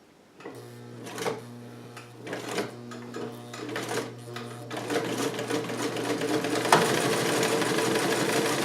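Vintage Sovereign electric sewing machine starting up and stitching through two layers of leather: a motor hum begins, the needle makes a few separate slow strokes, then speeds up to fast continuous stitching, louder over the last couple of seconds.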